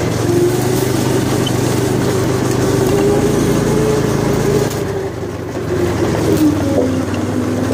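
Stock Predator 420cc single-cylinder four-stroke go-kart engine running at high revs under load, close to but not at wide-open throttle. About five seconds in, the revs fall steadily as the throttle eases off.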